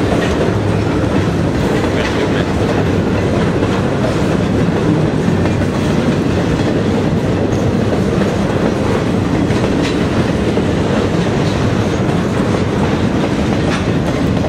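Double-stack container freight train rolling past, steel wheels on the rails making a steady rumble with the clatter of wheels over rail joints.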